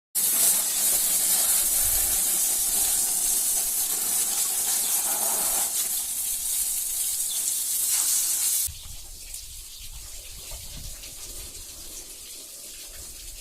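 A steady rushing hiss that drops suddenly to a quieter hiss about nine seconds in.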